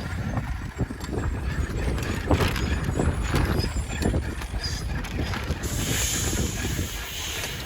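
Garbage truck at work: a run of knocks and clanks over the engine's rumble, then a hiss of air starting near the end, like an air brake being released.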